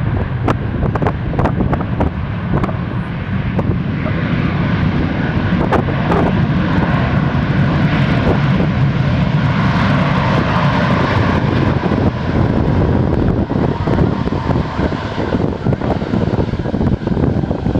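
Jet airliner's engines passing, a steady rumble with a whine that is strongest around the middle, with wind buffeting the microphone.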